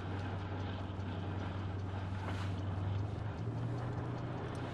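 Tow plane's propeller engine running steadily, heard from the glider cockpit over rushing wind; its low note steps up slightly about three seconds in.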